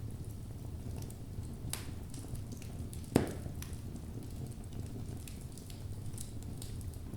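Wood fire burning in a fireplace: a low steady rumble of flames with scattered sharp crackles, and one loud pop a little past the middle.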